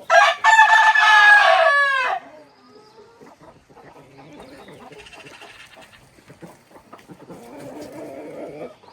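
A rooster crowing once, loud, for about two seconds, its call bending down in pitch at the end, followed by much fainter scattered farmyard sounds.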